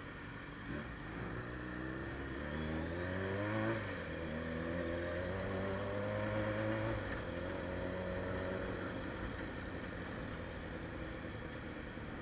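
Suzuki Bandit 600's carbureted inline-four with a straight-through sport exhaust, accelerating: revs climb, drop sharply at a gear change about four seconds in, then climb again before easing off after about seven seconds.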